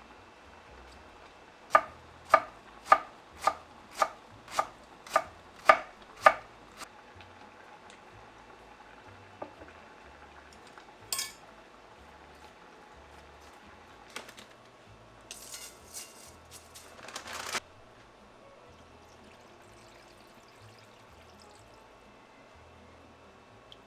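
A knife chopping on a cutting board: about nine sharp, even strokes, roughly two a second, that stop after a few seconds. Later come a brief scraping sound and a short stretch of kitchen clatter.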